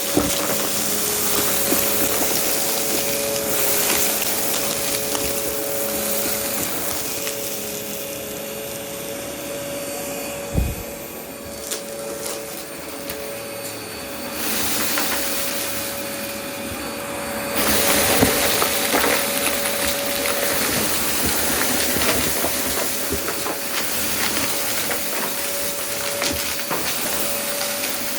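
Vacuum cleaner running with a steady motor whine under a hiss of rushing air that swells and drops as it is worked. There are scattered clicks and one sharp thump about ten seconds in.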